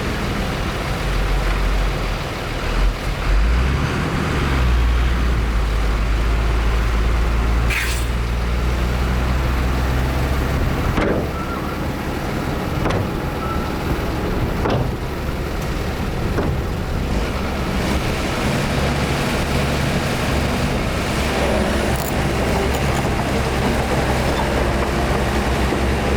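Heavy diesel earthmoving machinery running steadily, with a few sharp knocks or clanks in the middle.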